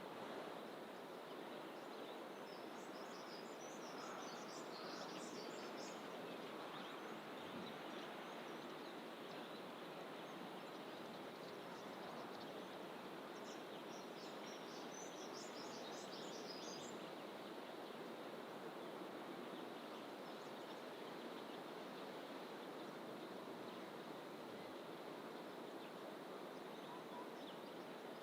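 Small birds chirping rapidly and high-pitched in fynbos bush, in two bouts: one a few seconds in and one around the middle. Under them runs a faint, steady rushing background.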